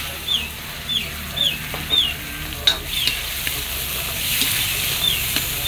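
Raw chicken pieces sizzling in hot oil with onion and garlic in a steel wok, stirred and scraped with a wooden spatula; the frying hiss grows louder from about halfway. Over it a bird cheeps steadily in short, high, falling notes, about two a second.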